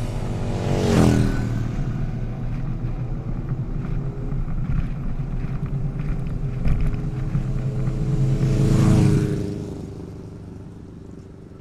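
Motorcycle engines passing by, with a steady engine drone between them. One bike passes about a second in and another near nine seconds, each dropping in pitch as it goes by. The sound then fades away.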